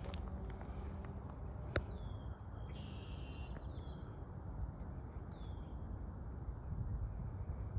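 A small bird calling: short, high, downward-sliding chirps repeated every second or so, with one longer, flatter call about three seconds in. A steady low rumble runs underneath, and there is a single sharp click just before two seconds.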